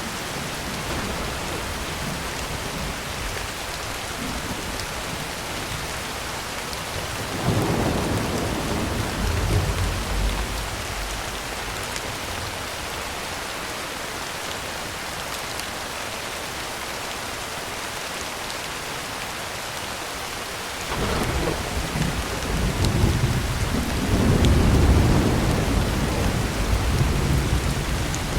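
Heavy rain drumming on a tin roof as a steady hiss, with two rolls of thunder. A shorter rumble comes about a quarter of the way in, and a longer, louder one begins about two-thirds of the way in and rumbles on to the end.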